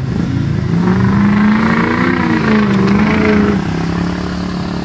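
Vehicle engine revving hard under load: the pitch climbs slightly and then falls away over about three seconds, with a rushing noise on top.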